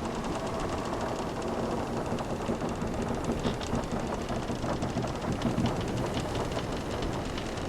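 Wooden sailing ship creaking, with many small clicks and short groans of timber over a steady rush of sea water.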